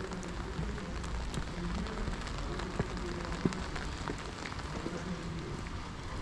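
Steady rain falling and dripping on wet stone paving and steps, a continuous patter with scattered drip clicks and a couple of sharper ticks around the middle.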